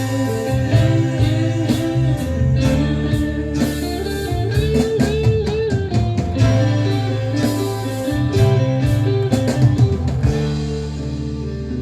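Instrumental passage of early-1970s rock: an electric lead guitar playing a bending melodic line over bass guitar and drum kit, with no singing.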